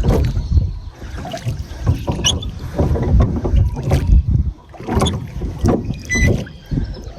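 Small boat on the water: irregular knocks and bumps against the hull, with a low rumble of wind on the microphone.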